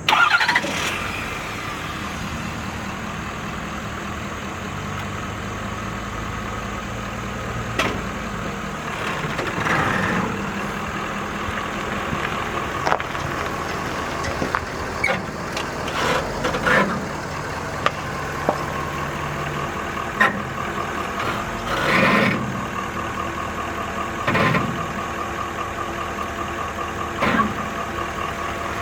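2012 Ford F-550 Super Duty dump truck's engine running steadily at idle, with scattered short clicks and knocks over it.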